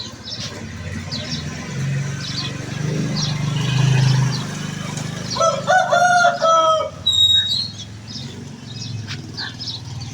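Rooster crowing once, a loud call of several linked parts about halfway through. Short high peeps recur throughout.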